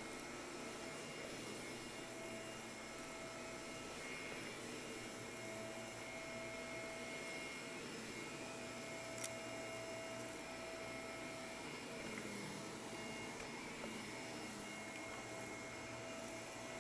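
Shark vacuum cleaner running steadily, with a faint whine that fades in and out, and a single sharp click about nine seconds in.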